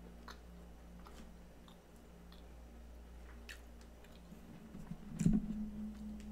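A person chewing close to the microphone, faint mouth clicks and small crunches, with a louder knock about five seconds in.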